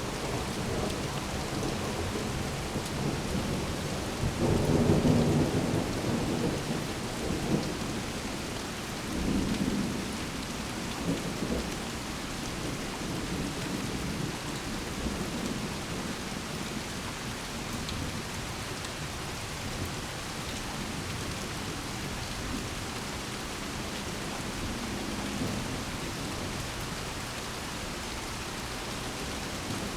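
Steady rain falling during a thunderstorm, with thunder rumbling over it, loudest about five seconds in, again near ten seconds, and faintly once more late on.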